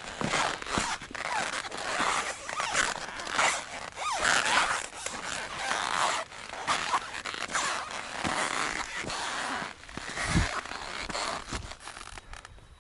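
Close, rough scraping and rustling in quick irregular strokes with scattered clicks, fading near the end.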